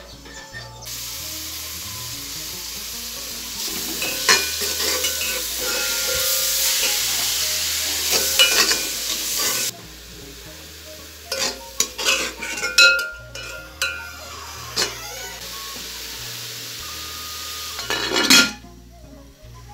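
Shredded cabbage sizzling as it fries in an aluminium pot, with a metal spoon stirring and scraping against the pot. The sizzle cuts off about ten seconds in. Sharp spoon clinks and knocks on the pot follow, and a louder metal clatter comes near the end.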